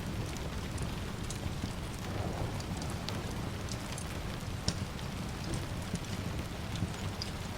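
Steady rain hiss mixed with a low rumble, with scattered sharp pops from a crackling wood fire.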